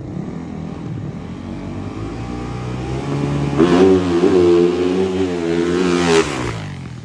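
A dirt bike's engine grows louder as it approaches, runs at high revs for a few seconds as it passes close by, then drops off suddenly and fades as it rides away.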